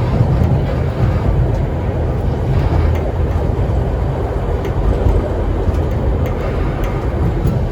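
Heritage steam train under way, a steady low rumble of the carriages running on the track with faint light clicks over it.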